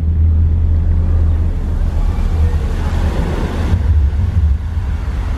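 A loud, steady low rumble under an even noisy hiss.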